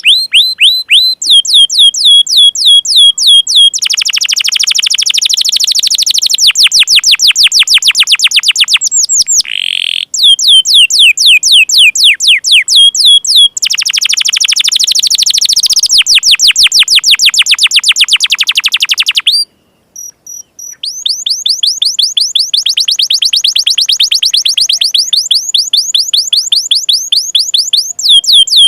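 Domestic canary singing: long, loud trills of rapid, repeated high notes, each sweeping downward, changing from one trill type to the next, with a brief break a little past two-thirds of the way in.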